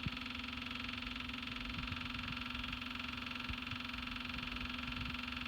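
Massey Ferguson GC1705 compact diesel tractor with the key held in glow-plug preheat before a cold start: a steady, even hum, with a few faint knocks.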